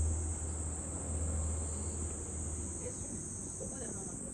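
Insects buzzing in one steady, high-pitched, unbroken drone, with a low steady rumble underneath.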